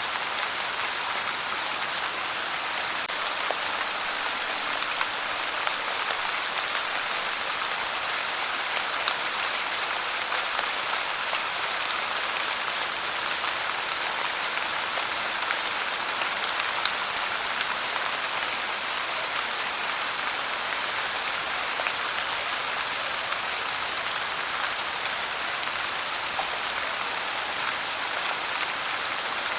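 Steady pouring rain, an even hiss with individual drops now and then standing out as light taps.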